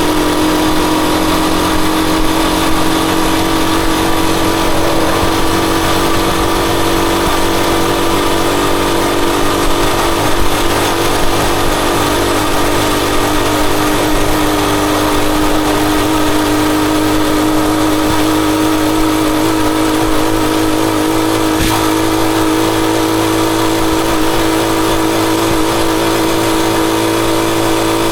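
Rusi Chariot 175 motorcycle engine running steadily under way, its pitch easing slightly lower over the stretch, with an even rushing noise behind it.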